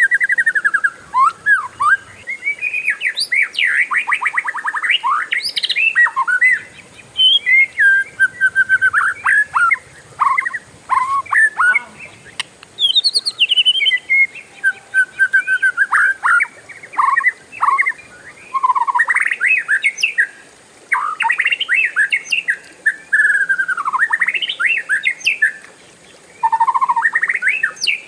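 Oriental magpie-robin (kacer) singing a long, varied song of whistles, chirps and rapid trills, broken by a few brief pauses.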